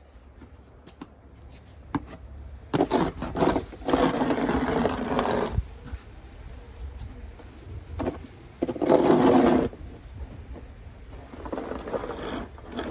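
Scraping in several long strokes, each a second or so, over a steady low rumble.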